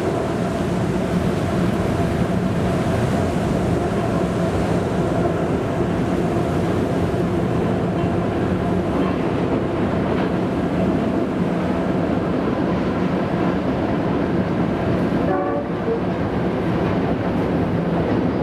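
Container freight train crossing a steel truss rail bridge: a steady, loud rumble of wagons rolling over the bridge. Steady tones under it come from the hauling diesel locomotives.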